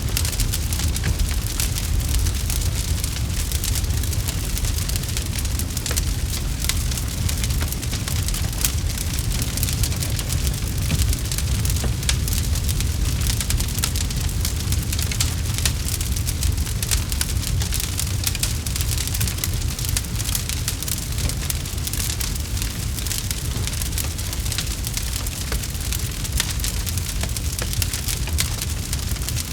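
Campfire crackling steadily, with dense irregular small pops and snaps over a continuous low rumble.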